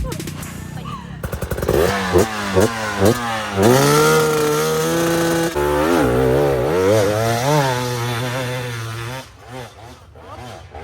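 Off-road motorcycle engine revving hard on a steep hill climb: several quick throttle blips, then held high revs that rise and fall with the throttle, dying away near the end.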